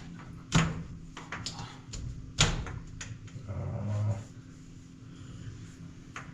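A dog barking: two sharp, loud barks about two seconds apart, then a lower, longer sound lasting under a second.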